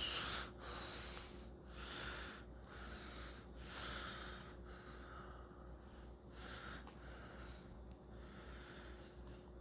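A person breathing close to the microphone, faint in-and-out breaths about once a second, over a low steady hum.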